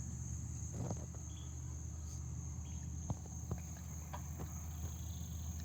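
Steady high-pitched insect chirring, with a few light clicks and taps a little past halfway.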